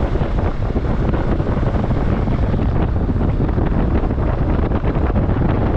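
Loud wind buffeting a motorcycle-mounted camera's microphone at riding speed, a steady fluttering rush that buries the bike's own sound.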